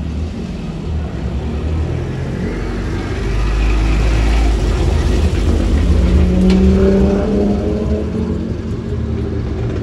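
Modified rally car's engine running with a heavy low rumble. It grows louder a few seconds in, and its pitch rises in a rev past the middle before settling back.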